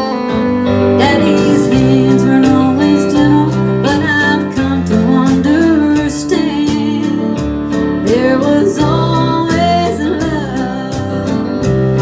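Live country band music with guitar and a steady drum beat, a slow ballad.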